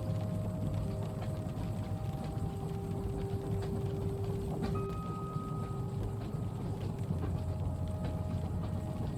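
Train carriage ambience: a steady low rumble and rhythmic clatter of the carriage running over the rails, under a soft haze of rain noise. Thin steady whining tones come and go, with one sharp click about halfway through.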